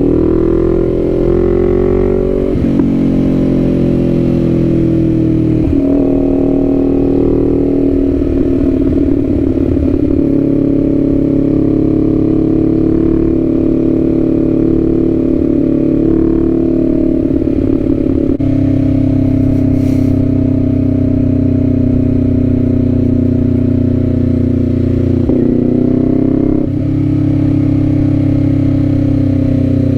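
Kawasaki Z400's parallel-twin engine running under way, its note climbing with the revs and then stepping down at each of several gear changes.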